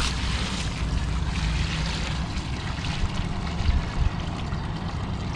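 Bowl of dirty water poured out onto the ground in a steady splashing rush that stops near the end.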